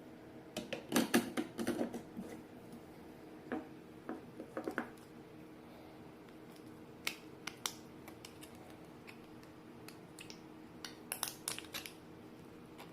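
Light clicks and knocks of small hard objects being handled, in four short clusters, over a faint steady hum.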